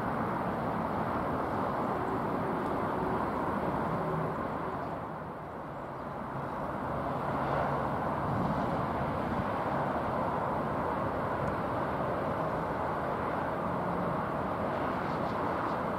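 Steady distant rumble of an electric high-speed train, a Southeastern Class 395 Javelin, running across the viaduct. The sound dips briefly about five seconds in.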